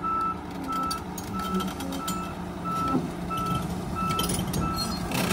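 Excavator's travel alarm beeping steadily, about two beeps a second, over its running engine as the machine tracks in reverse.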